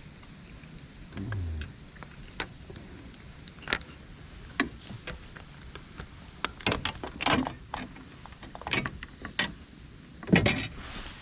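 Irregular sharp clicks and knocks of fishing gear being handled aboard a kayak, loudest near the end, with a brief low sound about a second in.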